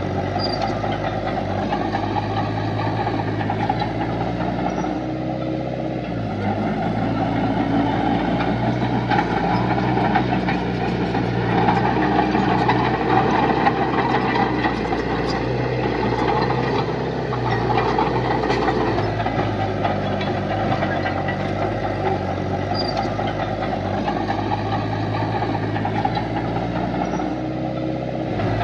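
Diesel engines of a bulldozer and dump trucks running steadily, getting louder under load from about a quarter of the way in and easing back about two-thirds through.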